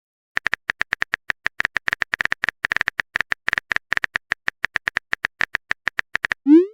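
Phone-keyboard typing sound effect: a fast, even run of small clicks, about eight a second, followed near the end by a short rising whoosh like a message being sent.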